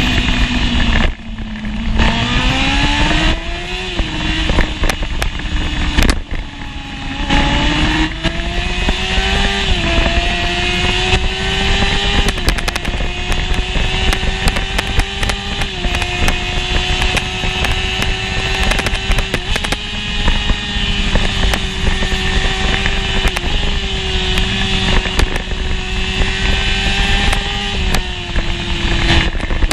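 Onboard sound of a 1988 Honda CBR600F1's inline-four engine at racing speed, over steady wind rush. The revs drop and then climb again in the first few seconds. After a lull around six seconds in, the engine pulls hard through a run of quick upshifts, each a short dip in pitch before the revs climb again.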